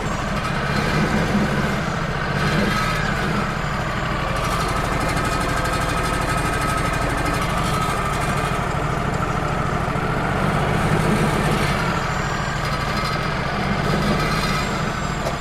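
Wood-Mizer LT35 hydraulic portable sawmill's engine running steadily.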